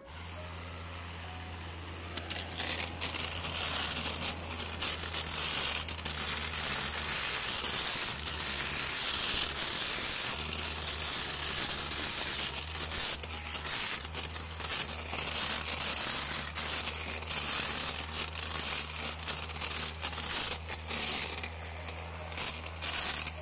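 Grass trimmer fitted with home-made cutting strips cut from a soda bottle, running with a steady low hum while the plastic strips slash through grass with a dense crackling and rustling. It starts and stops abruptly.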